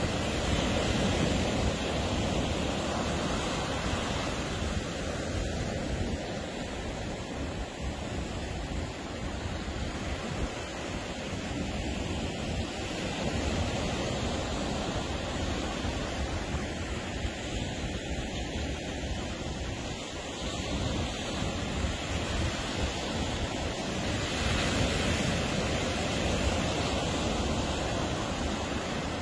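Ocean surf breaking and washing on a beach: a continuous rushing wash that swells and eases as the waves come in, loudest near the start and again near the end.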